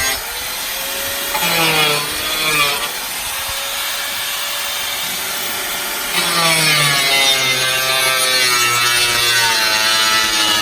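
Handheld electric power tool cutting, its motor whine sagging in pitch under load about a second and a half in and again, louder and longer, from about six seconds in.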